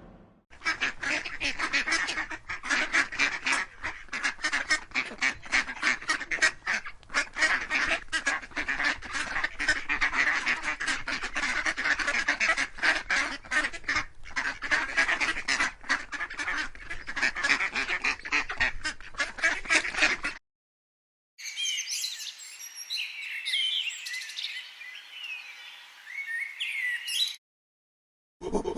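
A flock of birds calling rapidly and continuously for about twenty seconds, stopping suddenly. After a short gap, smaller birds chirp with quick rising and falling high notes for about six seconds.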